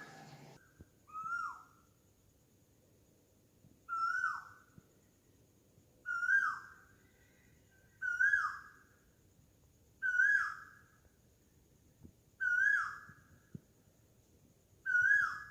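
Asian koel calling: a whistled note that falls in pitch, repeated seven times about every two to three seconds.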